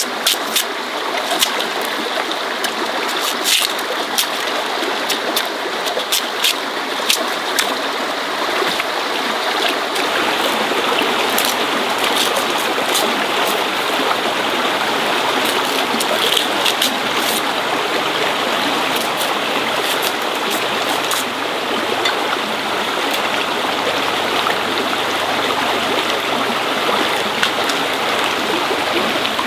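Running water, like a steady stream or trickle, with many small sharp clicks or taps over it during the first dozen seconds or so.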